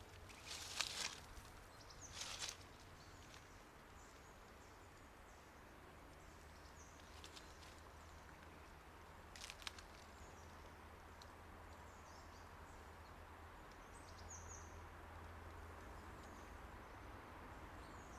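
Faint quiet woodland ambience: a few brief, high bird chirps over a low steady hum, with three short rustles, about one and two seconds in and again near the middle.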